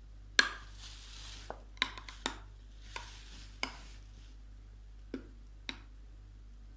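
Crisp crunching of pressed chalk being bitten and chewed close to the microphone: about eight sharp cracks, the loudest near the start.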